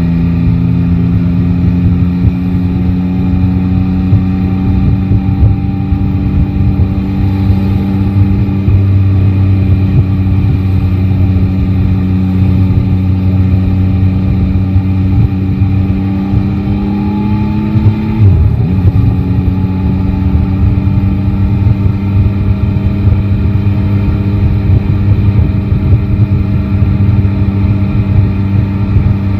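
Yamaha Tracer 9 GT's inline three-cylinder engine running under way, its revs climbing slowly. About two-thirds of the way through the revs dip sharply and recover, then hold steady, over a rough low rumble.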